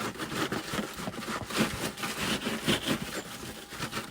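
Snow being scraped and brushed off a car, with rapid repeated scraping strokes.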